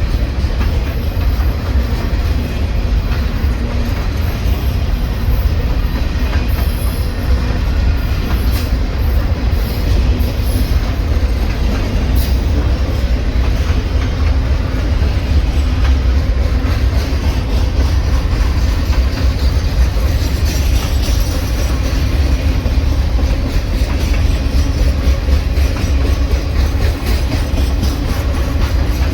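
Train rolling past at track side: a steady, loud rumble of railcar wheels on the rails.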